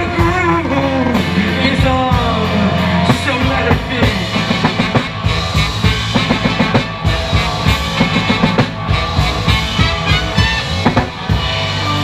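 Live rock band playing a mostly instrumental passage, the drum kit beating a steady, busy rhythm under the other instruments.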